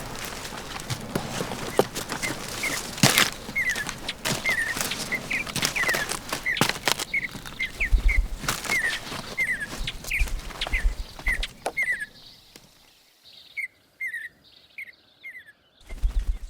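A bird repeating short, high, falling chirps several times a second, over close clicking, rustling and scraping noise with a few low thumps; the noise stops about twelve seconds in, leaving the chirps clear.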